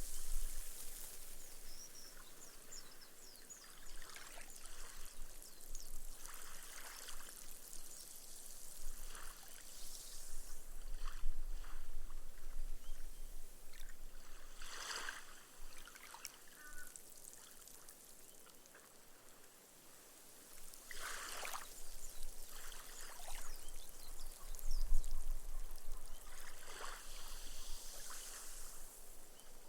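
Small ripple waves washing up a sandy beach and soaking into the sand, the foam fizzing and trickling away between each gentle wash. The washes come every few seconds, with a quieter lull about two-thirds of the way through.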